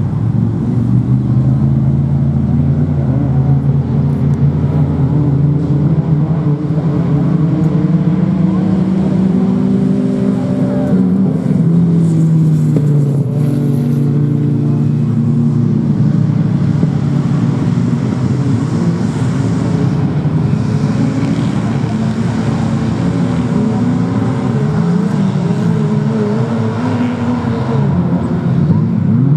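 Several off-road racing trucks and buggies running at once, their engines revving up and down in overlapping pitches as they accelerate and back off.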